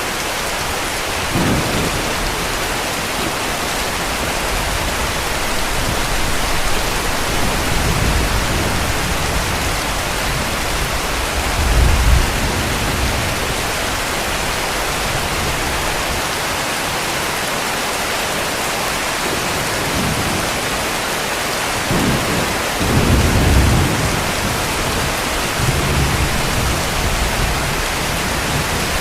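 Heavy rain falling in a steady hiss, with distant thunder rumbling low several times; the strongest rolls come about twelve seconds in and again a little past twenty-two seconds.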